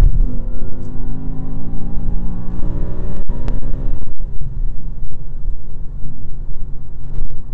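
Car engine heard from on board during a track lap: the revs fall away sharply at the start, then the pitch climbs steadily as the car pulls again. The sound cuts out for an instant twice in the middle.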